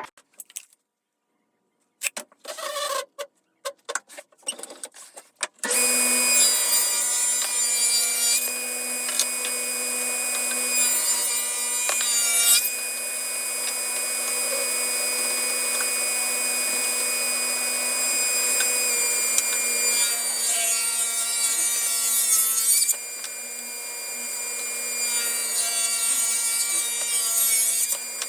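Power saw, most likely a table saw, ripping hardwood boards lengthwise. A few wooden knocks from handling the stock come first, then the saw starts about six seconds in and runs steadily, its cutting sound changing as boards are fed through.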